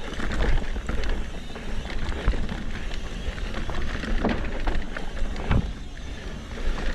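Mountain bike riding over a rough dirt trail: wind buffeting the microphone over a low rumble, with irregular knocks and rattles as the bike hits bumps.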